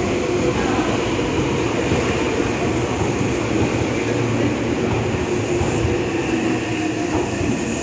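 Meitetsu limited express electric train running past at close range as it pulls into the station: a steady rumble of wheels on rails.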